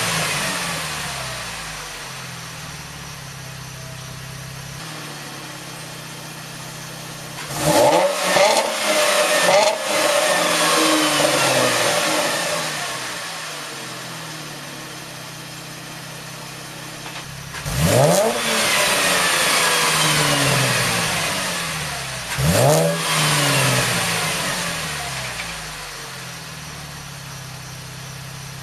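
2013 Chevrolet Camaro's 3.6-litre V6 revving through a newly fitted GM axle-back performance exhaust, with a low idle between revs. A quick cluster of revs comes about a quarter of the way in, then two single revs about two-thirds through. Each rev climbs sharply and falls slowly back to idle.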